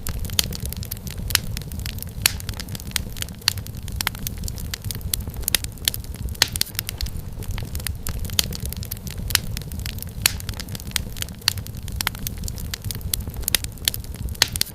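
Wood fire crackling: irregular sharp pops and snaps of varying loudness over a steady low rumble of burning.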